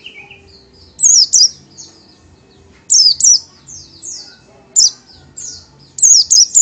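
Oriental white-eye singing: loud, high whistled notes that each slide sharply downward, in short groups of two or three, then a quicker run of notes near the end.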